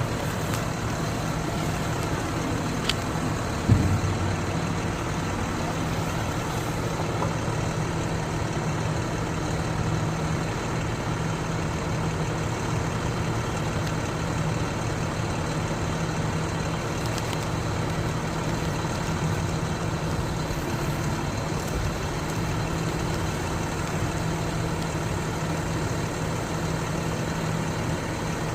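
Diesel engine of a Hyundai concrete pump truck running steadily, with a single knock about four seconds in.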